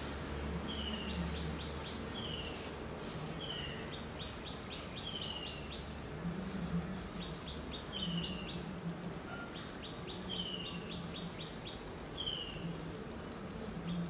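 A bird calling over and over: a short falling whistled note every one to two seconds, each followed by a quick run of ticks. Beneath it are a steady thin high-pitched whine and outdoor background noise.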